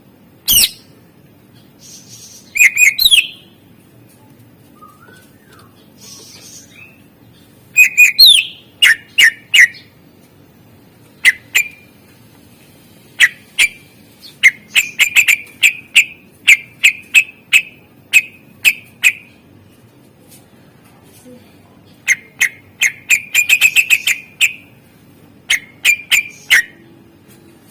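Greater green leafbird (cucak ijo) singing a loud, varied song of sharp downward-sweeping whistles and short clipped notes delivered in spaced series, including a quick rattling run of notes near the end. It is a 'full isian' song, packed with mimicked phrases of other birds.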